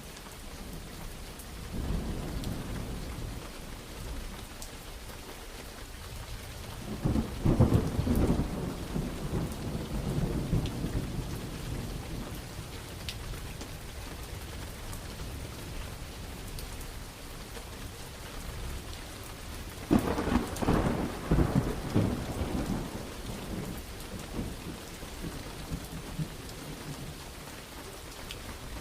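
Steady rain with thunder. A soft rumble comes about two seconds in, then two loud cracking peals about seven and twenty seconds in, each rolling away over several seconds.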